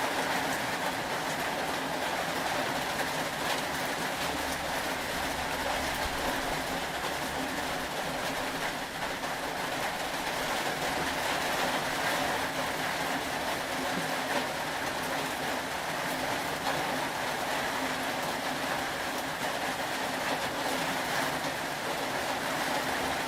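Steady rain: an even, continuous hiss of falling rain with no breaks.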